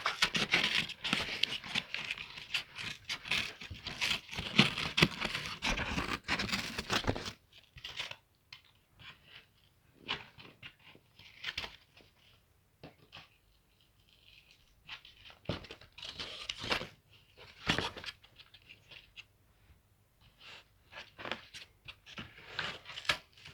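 Scissors cutting a cardboard egg carton: a dense run of snipping and crunching for about the first seven seconds, then scattered snips and handling clicks.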